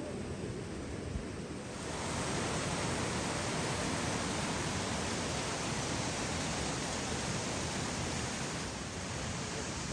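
Steady rushing of a waterfall, a full even hiss of falling water that grows louder about two seconds in.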